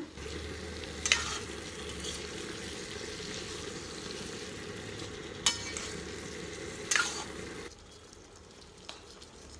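Whole gooseberries (amla) frying in oil and spice masala in a steel kadai, stirred with a steel ladle: a steady low sizzle with a few sharp scrapes of the ladle on the pan, about a second in and again twice around five to seven seconds in. Near the end the stirring stops and the sound drops a little.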